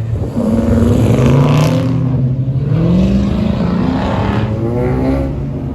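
A car engine revving, its pitch climbing and dropping back about three times.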